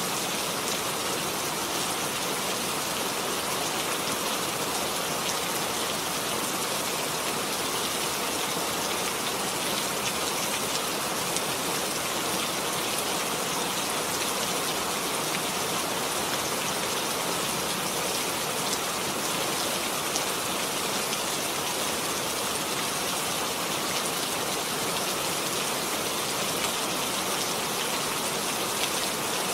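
Steady rain falling, an even hiss with a patter of drops, unchanging in level.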